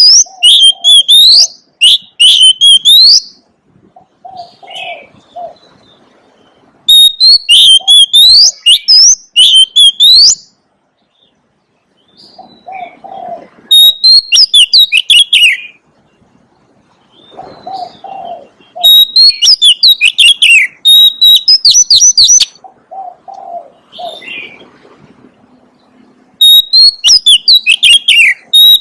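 Oriental magpie-robin singing loud phrases of rising, whistled notes, in bursts of two to three seconds with short pauses between. Softer, lower notes fill the gaps.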